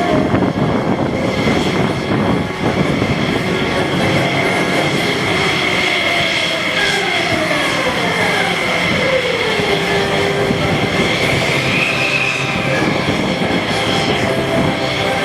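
F-16 jet engine running with a steady high whine over a loud rumble. Around the middle a lower tone slides down in pitch.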